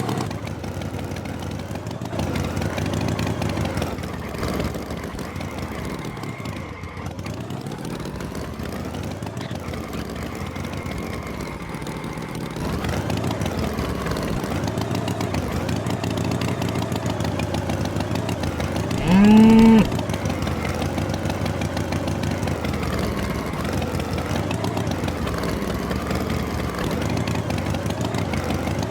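Tractor engine running steadily, its pitch sagging and rising as it revs. About two-thirds of the way through, a bull moos once, briefly and loudly.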